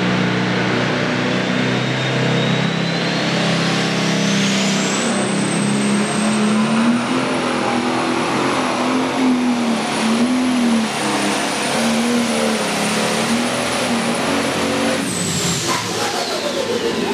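Pro stock pulling tractor's turbocharged diesel engine at full throttle under load, its turbocharger whine climbing steeply over the first few seconds and then holding high. About fifteen seconds in the throttle comes off and the whine falls away.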